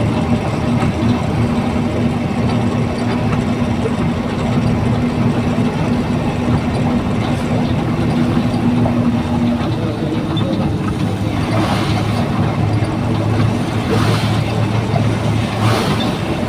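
Truck engine running while driving, heard from inside the cab: a steady drone with road noise, its pitch dropping about ten seconds in.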